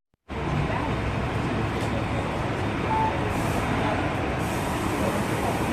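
Steady vehicle noise, an even rumble and hiss without a clear rhythm, with a brief high beep about three seconds in.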